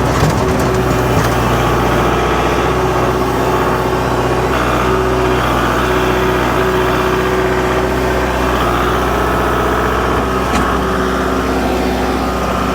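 An engine running steadily at a constant speed, as at idle, with a steady hum and no revving.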